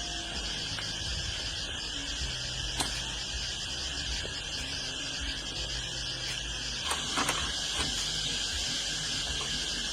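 Steady chirring of insects, with a faint low hum underneath and a few short clicks or knocks about three and seven seconds in.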